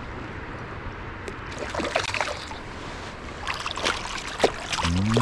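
Creek water flowing steadily, with a few short, sharp sounds over it about two, four and four and a half seconds in.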